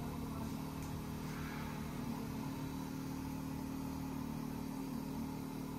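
Carbureted engine in a Chevrolet Malibu idling steadily through tiny open headers with no exhaust fitted.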